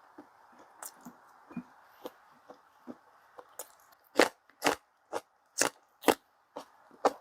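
Close-up chewing of food, faint at first, then loud crunching bites about twice a second from the middle on.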